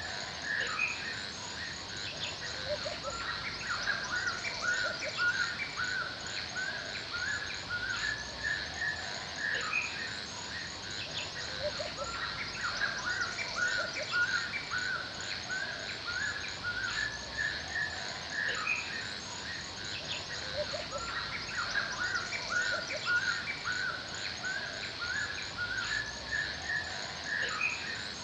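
Forest birds chirping and calling, many short repeated chirps throughout, over a steady high-pitched insect trill.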